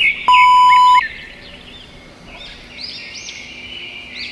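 A loud steady electronic beep lasting under a second near the start, then small birds chirping repeatedly with short high rising-and-falling calls.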